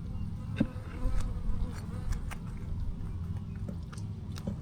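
Honeybees buzzing around an open hive: a steady low hum of many bees, with a few sharp clicks.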